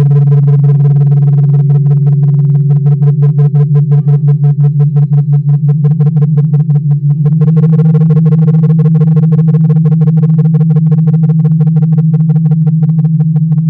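Several crystal singing bowls sounding together in long sustained tones, a low hum with higher tones above it, all wavering in a fast even pulse of about five beats a second.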